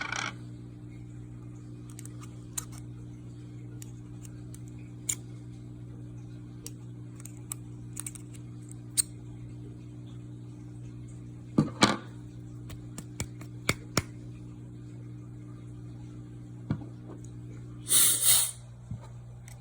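Scattered small clicks and scrapes of metal snips working at the old coil wire inside a Carta atomizer, with two louder scraping rustles, one midway and one near the end. A steady low electrical hum runs underneath.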